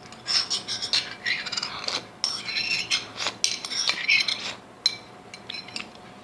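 Cutlery clinking and scraping against a dish: a quick run of small clicks and scrapes that dies down about four and a half seconds in.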